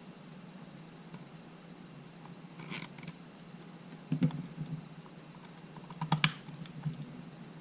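Light clicks and taps from small parts and tools being handled on a workbench during camera reassembly: a short scrape about a third of the way in, a click just past halfway, and a quick cluster of sharper clicks near the end.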